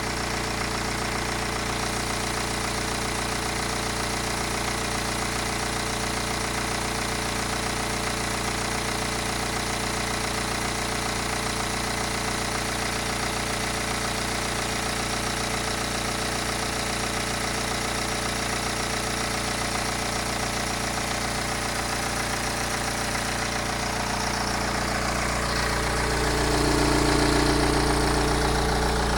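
BMW N47 2.0-litre four-cylinder diesel engine idling steadily, run so its timing chain can be judged for replacement. It grows louder for a few seconds near the end.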